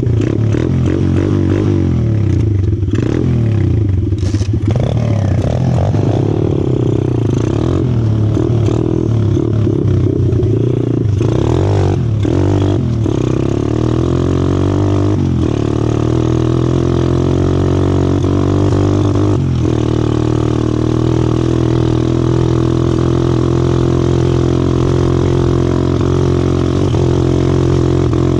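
A 125cc four-stroke pit bike's engine running as it rides along a trail, its pitch rising and falling with the throttle, with a few short knocks and clatter along the way.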